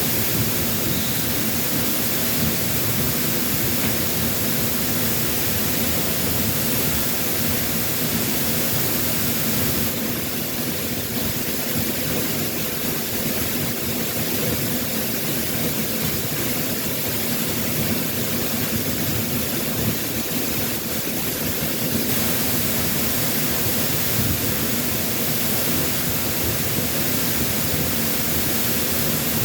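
Waterfall pouring steadily, an unbroken rush of water, its flow heavy after a typhoon.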